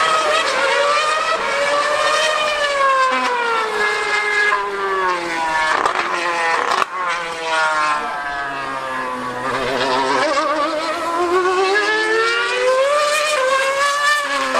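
2013 Formula 1 car's V8 engine screaming at high revs, its pitch swinging up and down several times as it accelerates and slows around the circuit. A single sharp click about seven seconds in.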